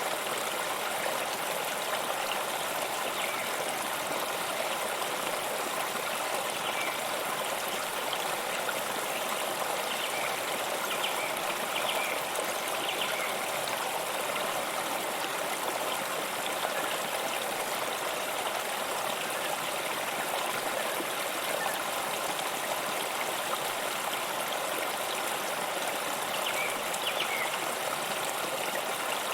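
Flowing stream: a steady, even rush of water.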